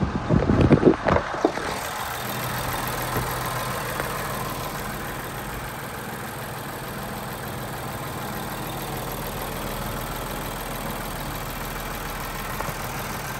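Infiniti Q60's 3.0-litre twin-turbo V6 idling steadily, after a few loud, irregular noises in the first second or two.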